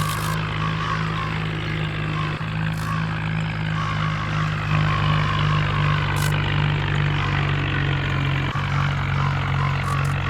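Heavy diesel engine running steadily at a constant pitch, with two brief dips, about two and a half seconds and eight and a half seconds in.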